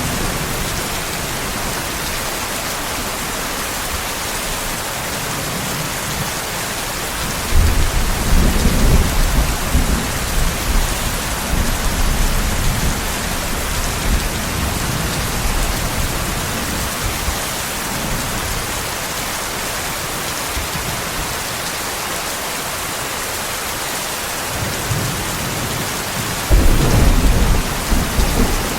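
Steady heavy rain with two deep rolls of thunder, the first about a quarter of the way in and rumbling on for several seconds, the second near the end.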